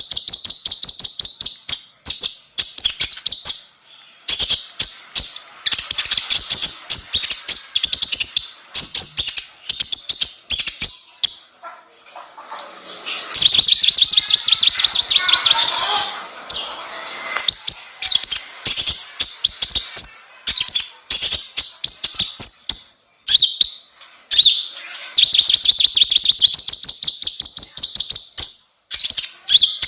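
Olive-backed sunbird (kolibri ninja) singing in full voice: loud, high, very fast trills of sharp repeated notes in bursts of a few seconds, broken by short pauses.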